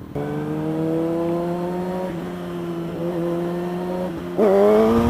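Sport motorcycle engine running at a steady pitch after a slight rise, then revving louder and climbing in pitch near the end.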